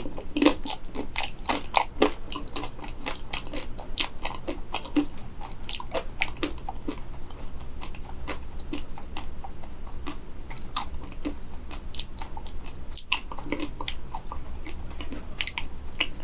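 A person biting into and chewing a crisp-shelled, matcha-coated banana, with many small irregular crunches, densest and loudest in the first couple of seconds.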